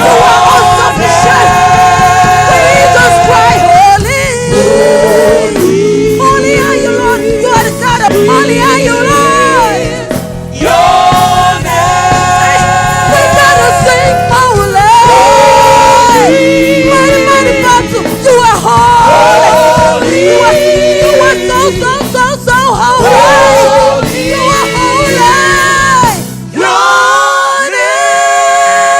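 Live gospel praise-and-worship music: sung vocals, with a choir, over a band, the bass dropping out briefly near the end.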